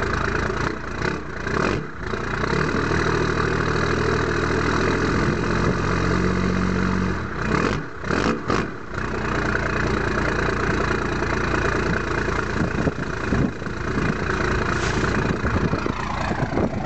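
1993 Dodge Ram's 5.9 L Cummins inline-six turbo diesel idling steadily through a straight-piped 4-inch exhaust, not yet warmed up. The idle sits a little low, with the injection pump's idle screw turned down as far as it goes.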